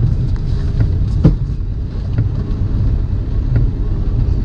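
Semi truck's diesel engine running, heard from inside the cab as a steady low rumble, with scattered short knocks and taps, the sharpest about a second in.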